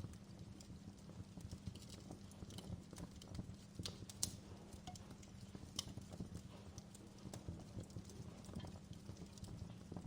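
Wood fire crackling in a fireplace: scattered sharp pops and crackles over a low, steady rumble, with a louder pop a little past four seconds in.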